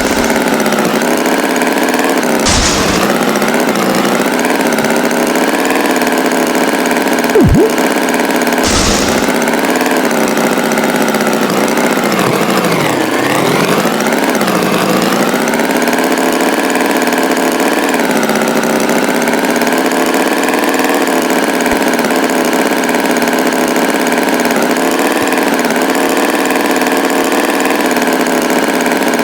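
Tractor engine running steadily at a low, even speed, with two brief hissing sounds in the first ten seconds.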